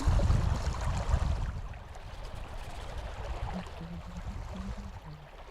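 River water flowing steadily, with a low rumbling on the microphone during the first second and a half.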